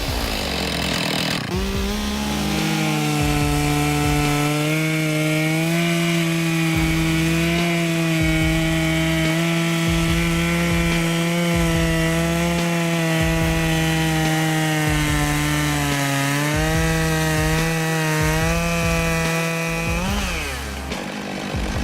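Two-stroke chainsaw running at high revs while cutting through wood, its pitch held steady under load. The pitch sags briefly about three-quarters of the way through, then rises and cuts off just before the end.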